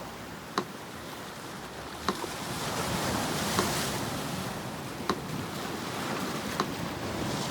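Sea surf washing steadily, swelling briefly in the middle, with a metronome ticking slowly and evenly, one tick every second and a half (about 40 beats a minute), five ticks in all.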